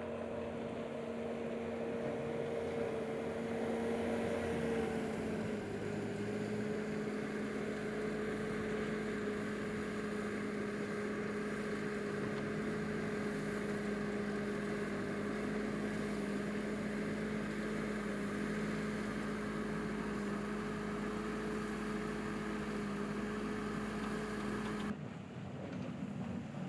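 An engine running at a steady speed, a constant hum that dips slightly in pitch about five seconds in and cuts off suddenly near the end.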